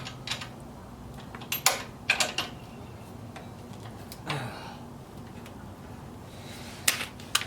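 A few sharp metallic clicks and taps of tools and bolts on a mini bike's jack shaft and frame as the parts are handled and adjusted, with a short scrape about halfway through. A low steady hum runs underneath.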